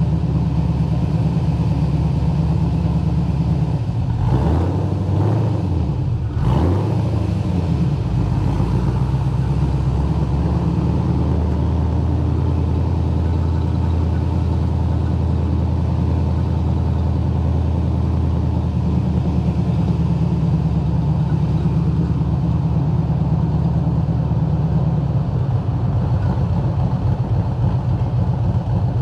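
Holden VY Commodore SS's 5.7-litre V8 engine and exhaust running under way at low speed, blipped up and down twice a few seconds in, then holding a steady note. Near the end the sound settles to a lower, rougher idle.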